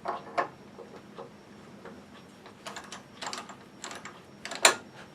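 Scattered light clicks and knocks of hand work at a stopped wood lathe, with one louder click near the end: the oak blank being fitted into a Nova scroll chuck.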